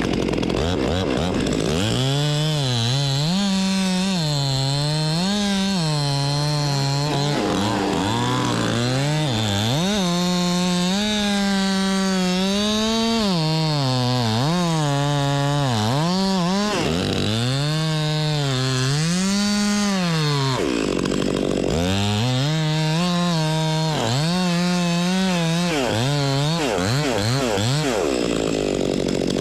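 Two-stroke gas chainsaw cutting wood. Its engine note sags as the chain bites and rises again between cuts, over and over, with a short drop to a lower note about two-thirds through.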